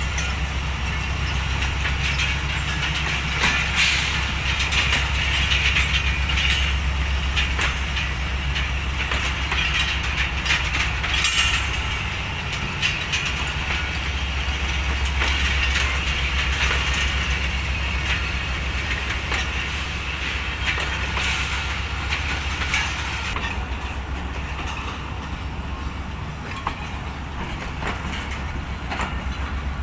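Passenger train rolling past with a steady low rumble, its wheels clicking repeatedly over the rail joints.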